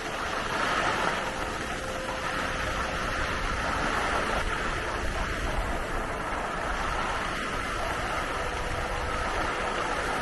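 Steady rushing noise of wind and skis sliding over groomed snow during a ski run, with no breaks or distinct impacts.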